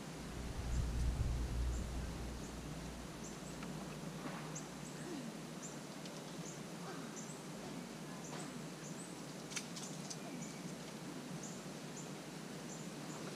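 A bird repeating a short, high chip note, about one every half second to a second, over outdoor quiet. Wind rumbles on the microphone for the first two seconds or so, and a few faint clicks come near the middle.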